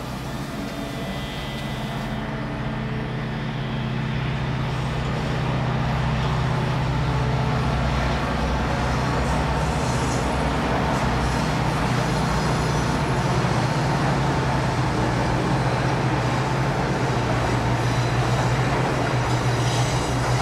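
A train approaching and running past, a rumble with a low steady drone that grows louder over the first several seconds and then holds.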